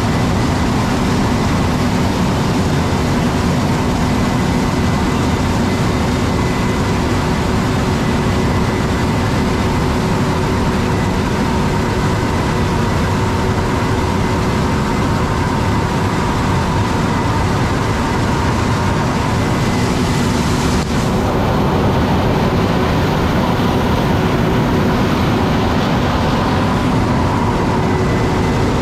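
Corn-harvest machinery running steadily: a loud, even engine and machine noise with a constant hum underneath. The sound shifts slightly about 21 seconds in.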